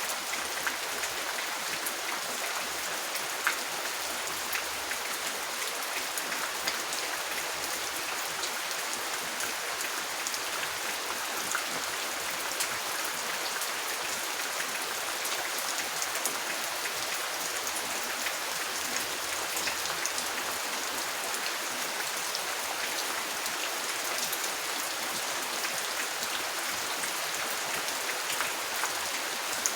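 Steady rain falling, an even hiss with many scattered individual drops ticking through it.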